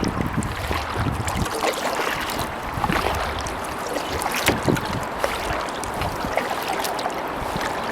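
Kayak paddle strokes splashing and dripping in the water, with wind buffeting the microphone.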